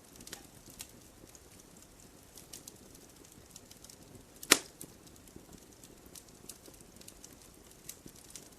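Wood fire burning, with scattered small crackles and one loud sharp pop about halfway through.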